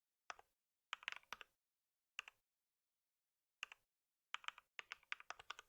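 Computer keyboard typing: a single keystroke, a quick run of about five, two more single keystrokes, then a fast burst of typing near the end.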